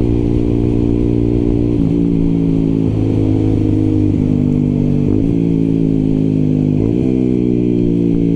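125cc motorcycle engine running under way, a steady note whose pitch dips briefly and picks up again a few times, heard from the rider's helmet with some wind noise.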